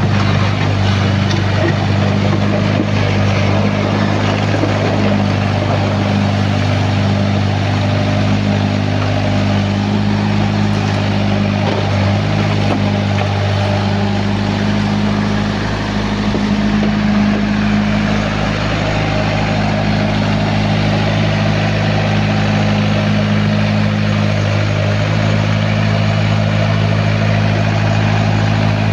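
Excavator's diesel engine running steadily under load while the machine digs, its low hum shifting slightly in pitch and strength.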